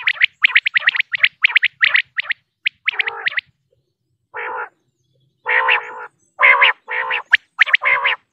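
Common quail calling: a fast run of short high chirps for the first couple of seconds, then after a pause a series of harsh, lower croaking notes each about half a second long.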